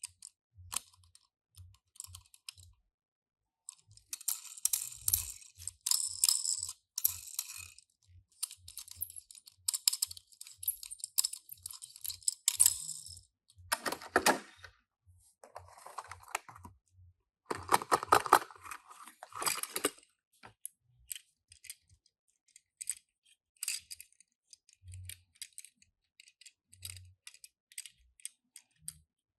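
Tomica die-cast minicars and their packaging being handled: scattered small clicks and taps, with stretches of rustling and a few louder scrapes in the middle.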